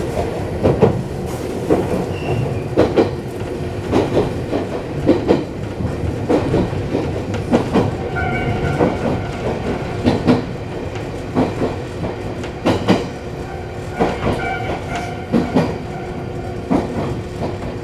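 Iyo Railway Yokogawara Line electric train running, heard from inside the driver's cab: a steady running hum with the wheels clicking over rail joints about once a second. A thin high squeal comes in twice, about halfway through and again near the end.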